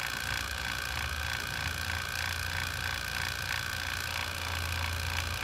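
Refrigeration vacuum pump running steadily, evacuating a reach-in cooler's refrigeration system through the manifold before it is charged with R-134a: a constant low hum with a steady high whine and a faint even pulsing.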